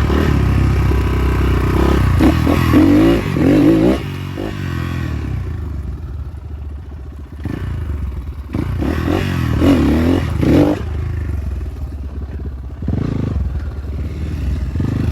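Enduro motorcycle engine running under load off-road, revved hard in two long bursts, about two seconds in and again about nine seconds in, easing off in between.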